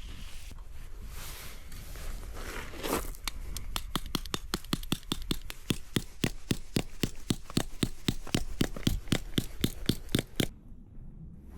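A scraping rustle, then a rapid, even run of sharp clicks, about five a second, for seven seconds or so, stopping abruptly.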